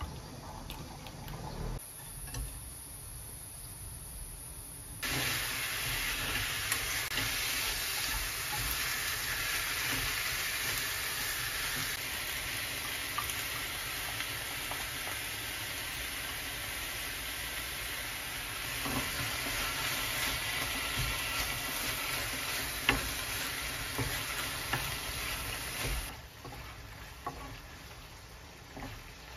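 Sliced pork and onions frying in a pan, sizzling and crackling as the gochujang sauce is stirred through with a wooden spatula. The sizzle starts abruptly about five seconds in and falls away near the end. Before it, there are a few light clinks of a spoon mixing sauce in a glass bowl.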